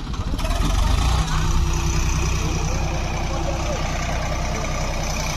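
Swaraj 744 tractor's diesel engine running steadily, growing louder during the first second and then holding an even note.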